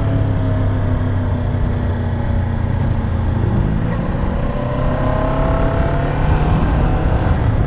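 Motorcycle engine running under way with wind rushing past, its pitch shifting about four seconds in as the rider works through curves.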